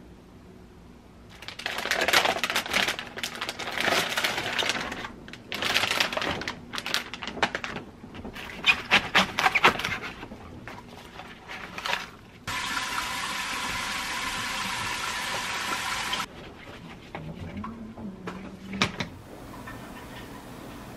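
Household water sounds: a tap running and splashing in uneven bursts, then a steady flow for about four seconds that shuts off suddenly, followed by a few light knocks.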